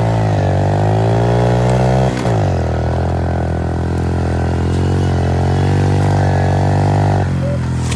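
Motorcycle engine running hard at steady revs. Its pitch drops sharply about two seconds in, as with a gear change, then holds, and drops again near the end.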